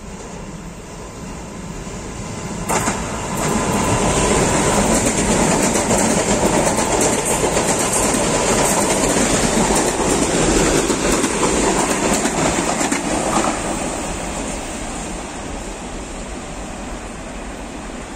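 SuperVia 3000-series electric multiple-unit train passing on the track, wheel-on-rail noise. It builds over the first few seconds, holds as a loud, steady rumble with repeated clicks from the wheels over the rail joints, then fades as the train pulls away.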